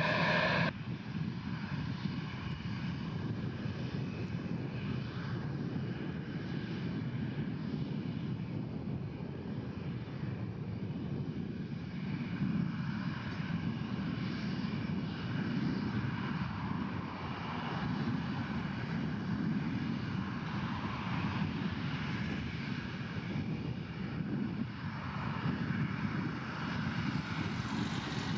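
Airbus A319-100 jet airliner coming in to land, its engines giving a steady rushing noise that swells and eases gently. In the first second a louder jet sound with a steady whine cuts off abruptly.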